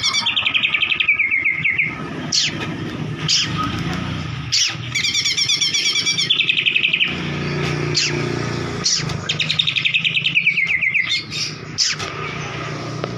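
White-rumped shama singing: three bouts of rapid trilling, each about two seconds, the first falling in pitch, with short sharp notes between them, over a low hum.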